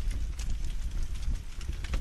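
Wood fire burning in a fireplace: a steady low rumble with a few scattered crackling pops.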